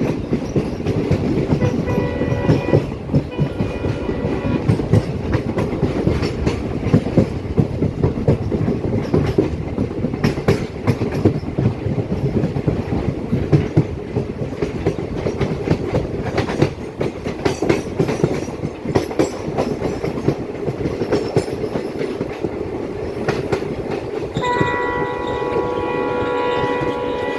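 Passenger train running along the track, a continuous rumble with wheels clattering over the rail joints. The locomotive horn sounds in two short blasts a few seconds in, and again in a long blast near the end.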